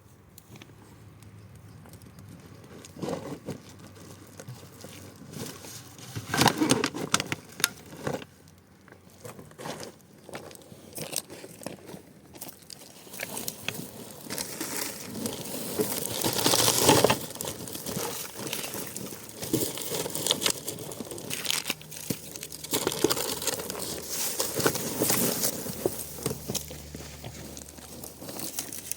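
Irregular crinkling and crackling with scattered sharp clicks, loudest past the middle.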